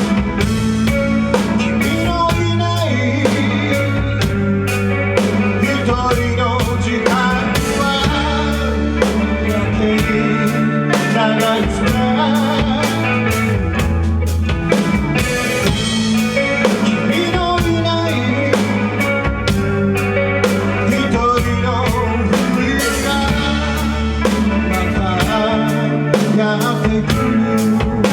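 Rock band playing at full volume, with a drum kit keeping a steady beat under electric guitar and bass.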